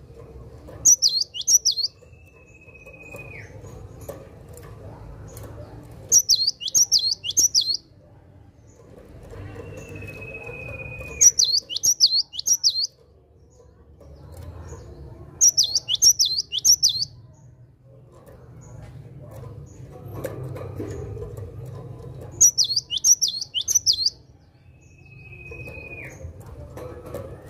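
Cinereous tit (gelatik batu) singing: loud bursts of four or five quick, high, repeated 'wucit' notes, coming about every five seconds. A single lower whistle that falls at the end sounds between some of the bursts, over a low background rumble.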